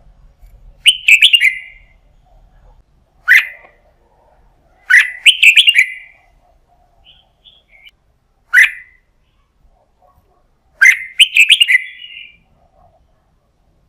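Red-whiskered bulbul singing: five short, bright warbled phrases, each a second or less, spaced a few seconds apart.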